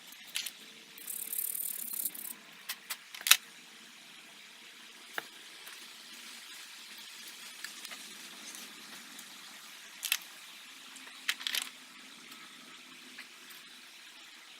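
Clicks, taps and knocks of metal parts and tools being handled while a throttle body is taken apart and cleaned, with the loudest knock about three seconds in. A short hiss lasts about a second, beginning about a second in.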